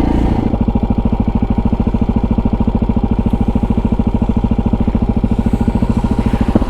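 KTM 640 Adventure R's single-cylinder engine running at low, steady revs, each firing pulse distinct at about a dozen a second.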